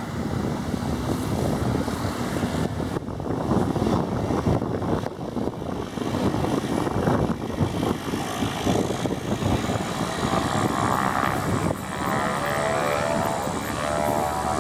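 Turboprop aircraft engine and propeller running close by, the noise building over the first few seconds, with a steady pitched propeller drone coming in near the end.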